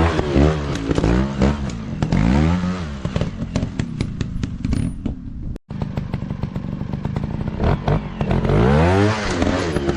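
Dirt bike engine revving up and down again and again, pitch rising and falling with throttle, with rattling clatter over it. The sound cuts out abruptly for an instant about halfway through.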